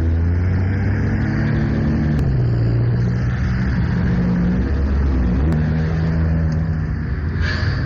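High-performance car engines running at low speed, a steady low engine note that steps slightly down in pitch about two seconds in. A brief hiss comes near the end.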